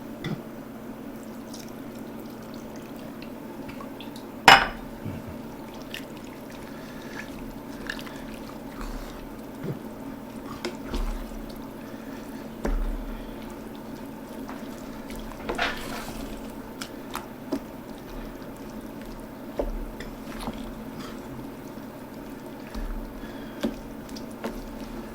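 Cooking in a pot: a spoon stirring vegetables into a thick, creamy sauce, with wet liquid sounds and scattered knocks and clicks against the pot. The loudest is a sharp knock about four and a half seconds in. A steady low hum runs underneath.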